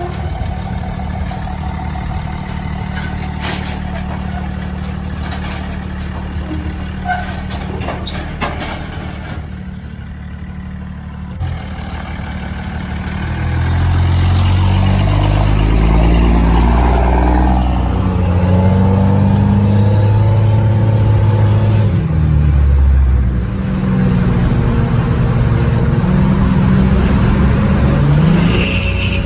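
Cummins diesel truck engine running steadily, then louder from about halfway through as it accelerates, its pitch shifting up and down.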